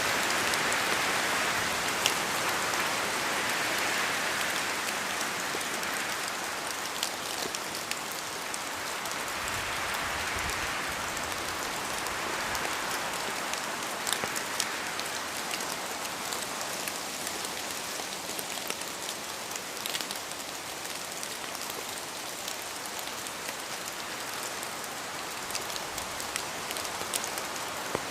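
Steady rain in a forest, with heavier single drops falling from the trees and ticking sharply through the even hiss. The hiss swells and eases every few seconds as the wind moves through the trees.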